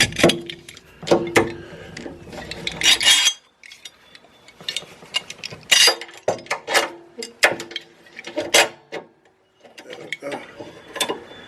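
A steel C-clamp being set and screwed tight on a walk-behind mower's cutting deck and blade: irregular metal clinks, taps and scrapes, some ringing briefly, with short pauses between.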